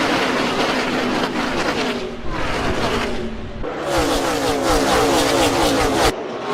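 Gen 6 NASCAR V8 race cars running at speed, engine pitch sliding up and down. The sound changes abruptly twice, about three and a half and six seconds in.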